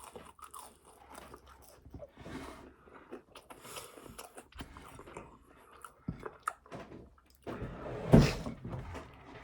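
Close-miked chewing and biting: a person eating a bacon cheeseburger, with wet mouth clicks and soft crunches, and one louder bite or bump about eight seconds in.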